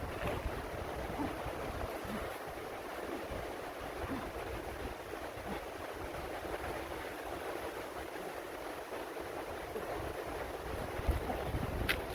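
Wind blowing steadily, a continuous rushing with uneven low rumbles of gusts buffeting the microphone. There is a brief sharp click near the end.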